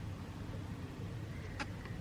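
Low steady background hum with a single faint click about one and a half seconds in.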